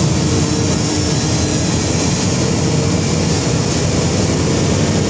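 Motocross bike engines running in a loud, steady drone.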